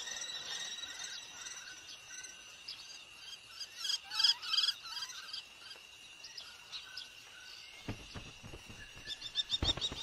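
Small birds chirping in quick high-pitched series, with a louder cluster of chirps about four seconds in, over a steady high insect drone. Low thuds start near the end.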